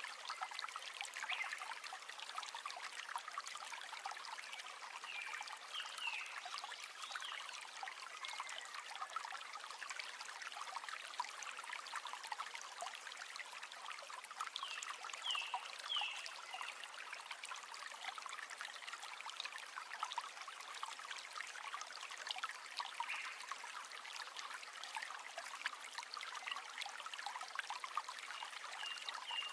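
River water flowing with a steady trickling, babbling rush.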